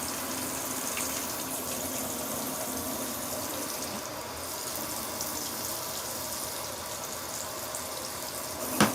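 Water running steadily into the plastic wash tub of a mini twin-tub washing machine as it fills for a rinse. A single sharp knock near the end.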